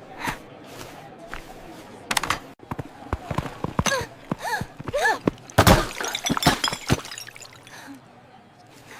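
A string of knocks and clatters with one loud crash about five and a half seconds in, mixed with short wordless vocal sounds that rise and fall in pitch.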